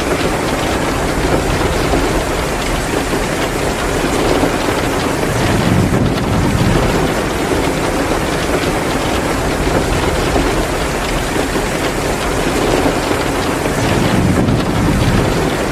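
Heavy rain pouring steadily: a dense, even hiss with a low rumble underneath.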